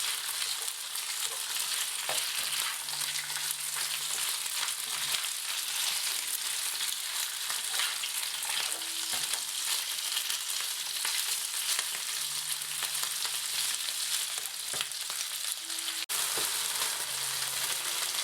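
Thinly sliced pork and garlic sizzling in hot oil in a pan as they are stir-fried, with scattered short clicks of the utensil against the pan. The sizzle is steady and cuts out for an instant about two-thirds of the way through.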